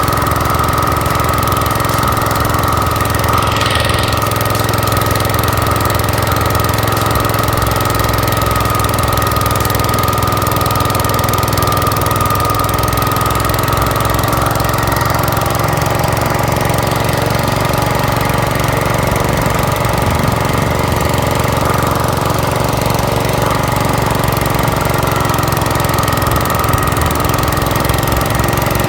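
Gravely tractor engine running steadily under a snow cannon snow-thrower attachment, with a steady high-pitched whine over the engine's hum.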